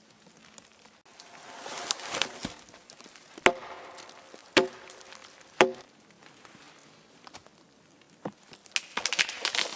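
Wood being chopped: three sharp strikes about a second apart, each with a brief ring, followed near the end by a quick run of cracking, splintering sounds.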